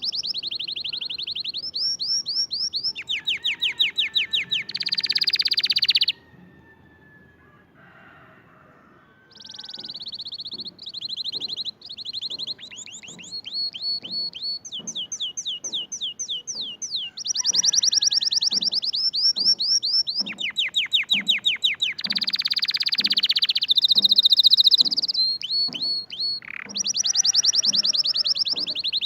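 A small songbird singing in rapid trills, phrases of quickly repeated high chirps, one after another, with a quiet pause of a few seconds about a quarter of the way in.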